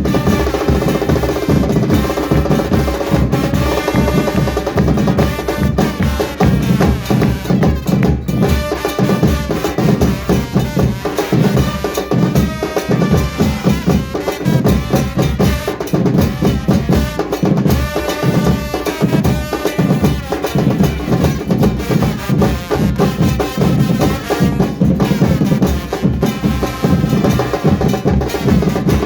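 Murga percussion band playing: drums beating a dense, driving rhythm without a break.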